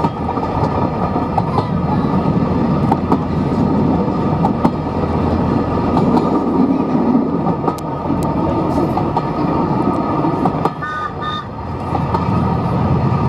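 Steam locomotive running steadily on the line, with two short whistle toots near the end.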